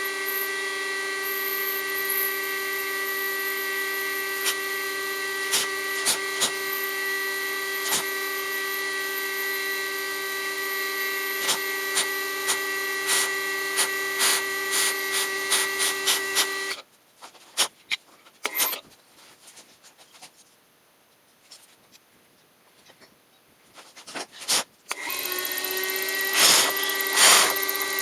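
Milling machine spindle running with a steady whine while the cutter works an aluminum block, with frequent sharp ticks of the cutter and chips. It stops abruptly about 17 s in, leaving a few scattered knocks. The spindle runs up again about 25 s in.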